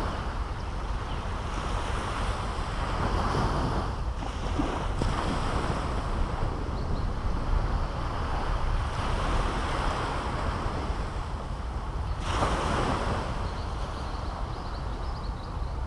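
Caribbean Sea surf: small waves breaking and washing up the beach in repeated surges, the loudest coming in suddenly about twelve seconds in, over a steady low rumble of wind on the microphone.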